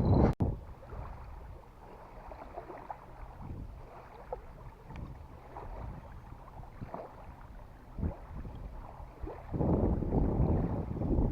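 Wind rumbling on the microphone, with scattered faint knocks and a louder gust about nine and a half seconds in.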